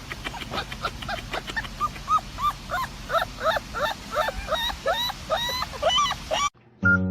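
A dog yipping over and over in quick, short, high-pitched yelps, about two to three a second. The yelps stop abruptly near the end and music begins.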